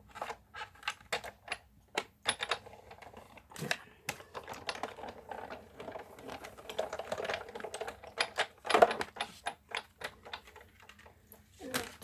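Hand-cranked Big Shot die-cutting and embossing machine running a plastic embossing folder sandwich through its rollers: a run of plastic clicks, a denser grinding stretch in the middle as the plates pass through, and a loud clack about nine seconds in.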